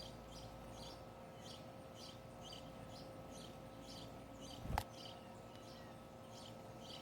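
Small bird chirping at a feeder, short high chirps repeating about twice a second. A single sharp knock on the feeder about two-thirds of the way through.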